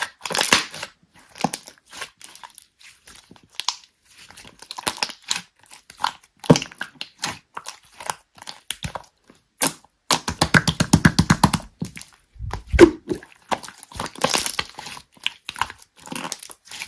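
Slime being squeezed and stretched by hand, with irregular wet clicks, crackles and pops throughout and a fast run of popping clicks in the middle.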